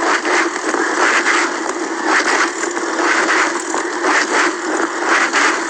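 Mountain bike being ridden on a road: steady tyre and wind noise with rattling, swelling about once a second.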